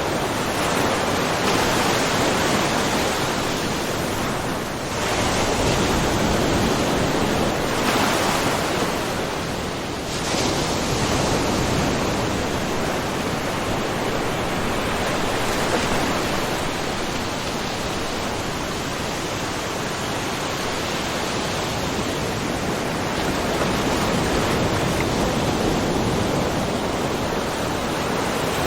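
Small ocean waves splashing and washing over a rocky shore, a steady wash of water noise that swells and eases every few seconds.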